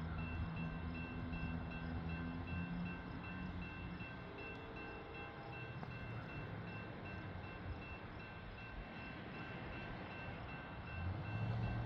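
Amtrak California Zephyr passenger train approaching from a distance, its diesel locomotives giving low steady tones that grow louder near the end, with a steady high-pitched ringing from the level-crossing warning signal.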